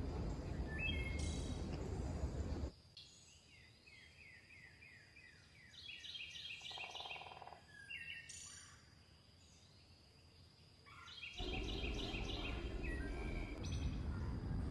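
Small birds chirping in quick repeated notes over a steady rushing outdoor noise. The noise cuts out abruptly about three seconds in, leaving the chirping more exposed, and cuts back in abruptly about eleven seconds in.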